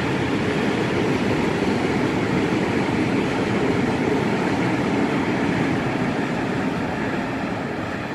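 Freight train's wagons rolling past on the rails, a steady, loud noise that starts to fade in the last two seconds as the train moves away.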